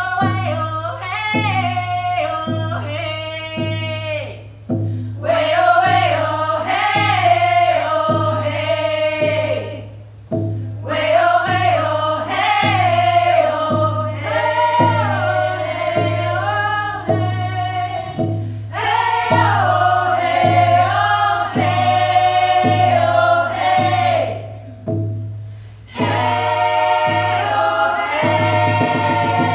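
A choir of women's voices singing in harmony in long phrases with short breaks, over a steady low beat.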